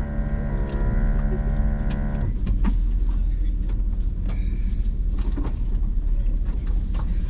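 Hummer H2 engine idling with a low rumble. Over it, a small electric motor whines at a steady pitch and cuts off suddenly about two seconds in. After that come scattered light clicks and knocks.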